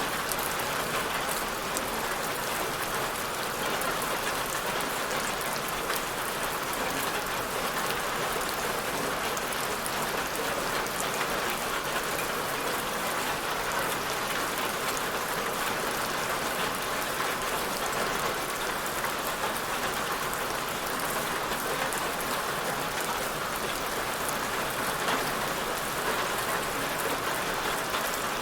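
Steady rain falling, an even hiss with the patter of individual drops on a surface.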